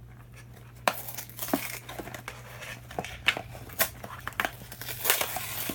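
Toy packaging being opened by hand: cardboard and plastic crinkling and tearing, with sharp clicks and snaps, starting about a second in and busiest near the end. The box is hard to open.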